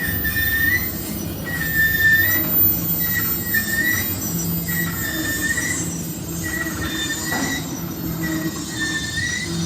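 Intermodal freight train rolling past with wheel squeal: a high screech that comes and goes about once a second, over the steady low rumble of the cars on the rails.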